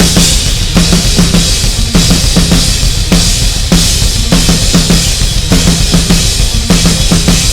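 Rock/metal drum kit played over the band's backing track: a steady, driving beat of kick drum and snare hits with cymbal wash on top.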